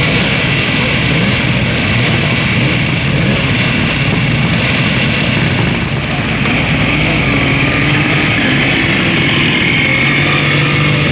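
Engines of vintage motor vehicles running, a steady, loud engine noise with some pitch that wavers slightly toward the end.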